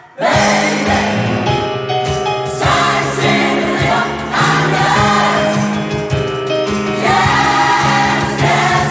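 Gospel choir singing loud, full chords in a pop-soul arrangement, coming back in sharply after a brief pause, over a steady rhythmic beat.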